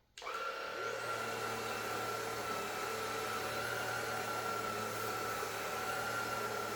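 Klarpul cordless stick vacuum switched on: its motor starts suddenly, whines upward as it spins up over the first second, then runs with a steady high-pitched whir.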